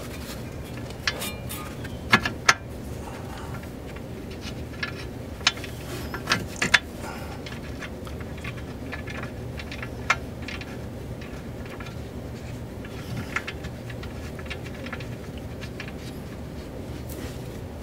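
Scattered sharp metallic clinks and taps as a bolt is pushed and wiggled into the ball-joint mount of a Toyota Sienna's lower control arm, over a steady low hum.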